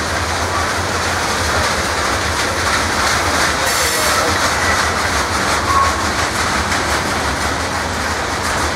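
Norfolk Southern freight train's cars rolling past at close range, a steady rumble and clatter of wheels on the rails with a few faint wheel squeals here and there.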